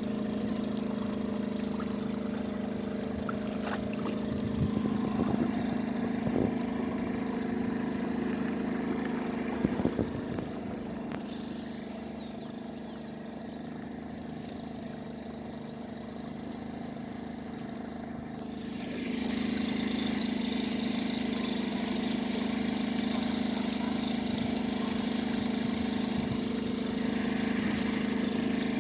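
An engine running steadily with a low, even hum, a few knocks in the first ten seconds and a high hiss joining about two-thirds of the way through.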